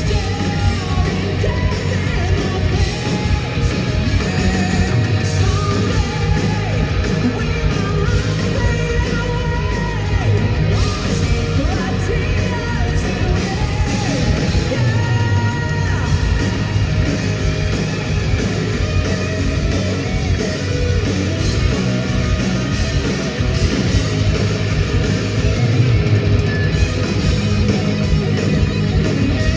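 Heavy metal band playing live, with distorted electric guitars, bass and drums, and a singer's high, shouted vocal over the top.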